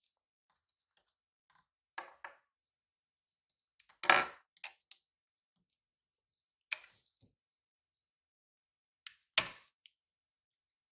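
Several separate sharp clinks and knocks of metal parts or tools being handled: a pair about two seconds in, the loudest a little after four seconds, one near seven seconds and another pair near nine seconds.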